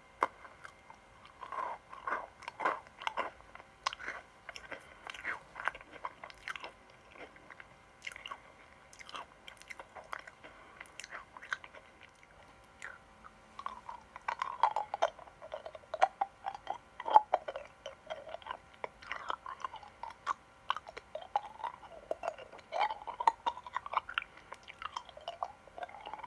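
Close-miked crunching and chewing of kohakutou crystal candy, with sharp crisp bites. From about halfway through, the candy is rolled around the mouth, giving wet clicking and sliding mouth sounds.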